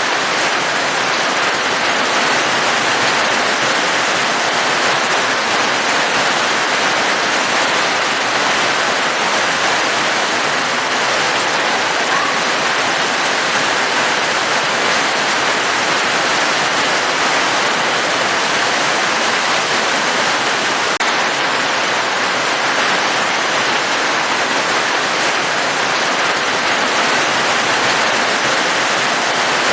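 Steady rain, a dense, even hiss of falling water that does not let up.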